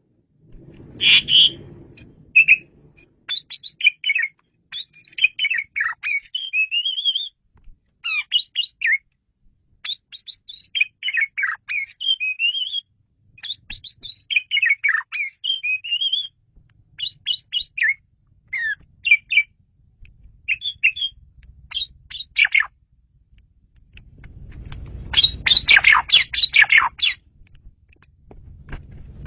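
Male Asian pied starling (jalak suren) singing: short, quickly varied phrases of whistles, chirps and harsh notes with brief gaps between them, turning into a loud, dense, harsh chatter about three-quarters of the way through.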